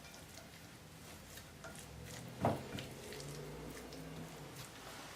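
Quiet kitchen handling at a mixing bowl: faint scattered clicks and one sharper tap of a utensil against the bowl about two and a half seconds in.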